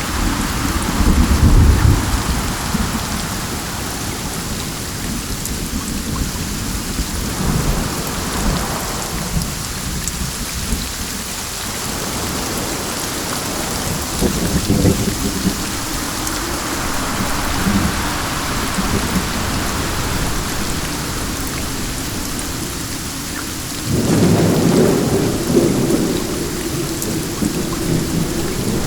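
Steady rain with wind swelling and easing, and low rolls of thunder now and then, the loudest beginning near the end.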